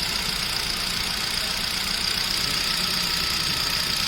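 Hyundai Elite i20 engine idling steadily with a thin, steady high-pitched whine over it, as the AC is switched on. The AC compressor is not building pressure, which the mechanic traces to a failed compressor control valve.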